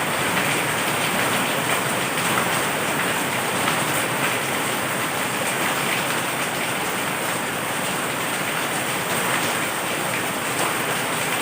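Heavy rain falling steadily: an even, dense hiss of rain with a few sharper drop hits standing out.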